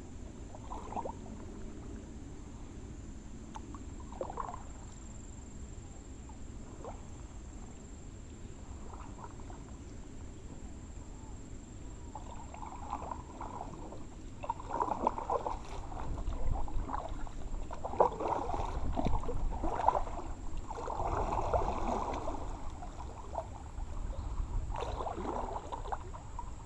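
Kayak paddle strokes dipping and splashing in the river water: a few scattered splashes at first, then a run of louder, closer-spaced strokes through the second half.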